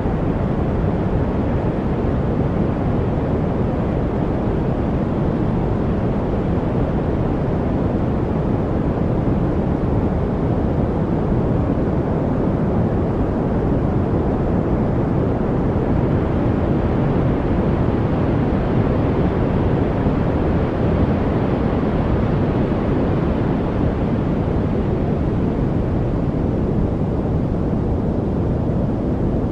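Steady, unbroken noise with a deep, low-weighted sound and little hiss, unchanging throughout.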